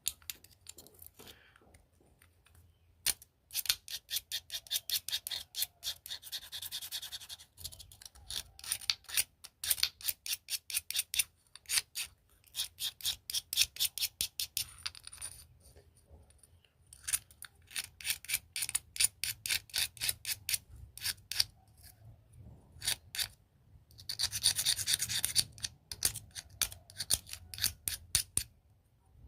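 Dry cement clumps being crushed, crunching and crumbling in rapid runs of crackles with short pauses between them. There are longer gritty rushes about six seconds in and again near twenty-five seconds.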